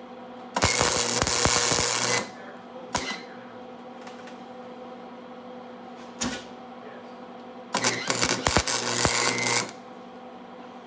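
Electric arc welding: the arc crackles and sputters in two welds of about one and a half and two seconds, with two brief strikes between them, over a steady electrical hum from the welder.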